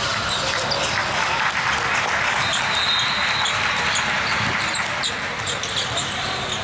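Basketball game in a gym: a ball bouncing and players' feet on the court over a steady hubbub of voices, with a brief high squeak about three seconds in.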